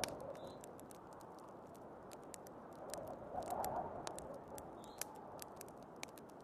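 Wood fire crackling with many sharp, irregular pops, over a steady rush of storm wind that swells briefly about three and a half seconds in.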